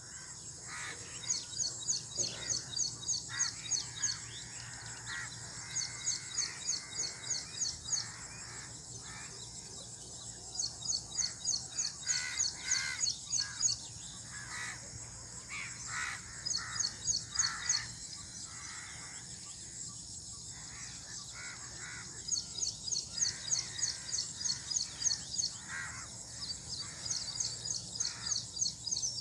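Outdoor birdsong ambience: bouts of rapid, high-pitched chirps, each lasting a few seconds and recurring throughout, with scattered lower calls in between.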